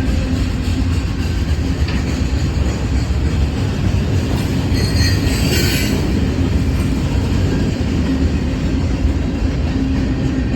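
Freight train rolling past with a steady, loud rumble of wheels on rail. A brief metallic wheel squeal comes about five seconds in.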